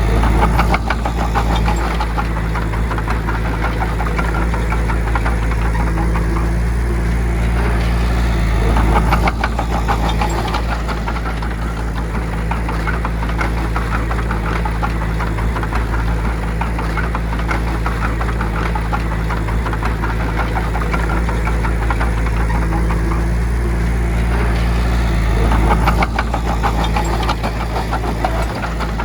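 Diesel engine of a heavy earthmoving machine running steadily, swelling louder three times: near the start, about nine seconds in, and a few seconds before the end.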